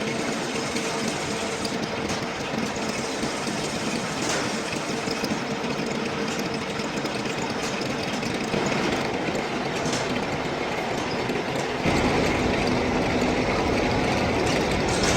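Heavy machine-shop lathe running, machining a large industrial shaft: a steady mechanical noise with a held hum and a few light knocks. About twelve seconds in it gets louder and deeper.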